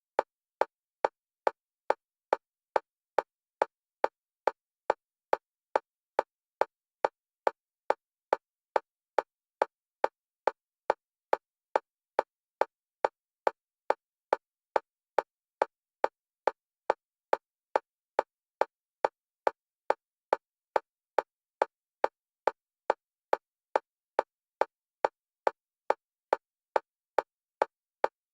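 Electronic metronome clicks for EMDR bilateral stimulation, alternating between the left and right stereo channels in a fast, even rhythm of a little over two clicks a second.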